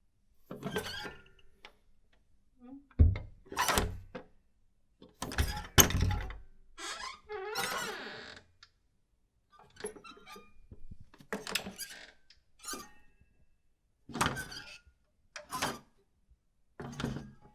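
Old door hinges creaking and squeaking in a string of separate short creaks as doors are swung, mixed with heavy thuds, the loudest about three and six seconds in.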